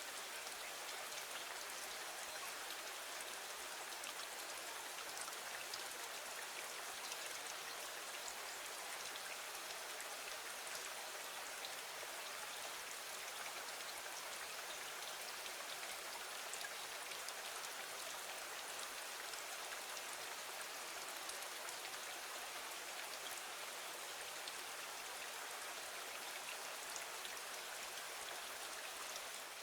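Steady rain falling against a window, an even hiss dotted with many small drop ticks.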